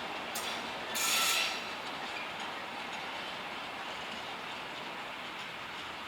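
A train rolling past on the rails with a steady running noise. About a second in comes a short, loud, high screech of the wheels on the rails.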